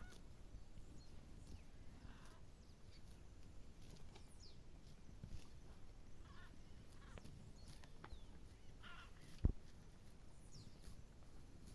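Faint farmyard outdoor ambience with scattered short bird calls and chirps. A single low thump sounds about nine and a half seconds in.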